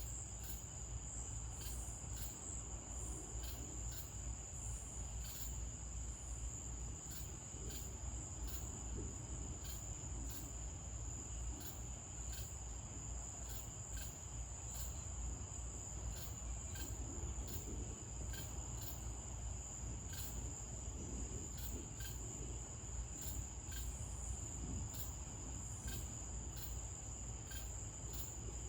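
Crickets chirping at night: a continuous high trill with short chirps repeating about once or twice a second over it. A low steady rumble runs underneath.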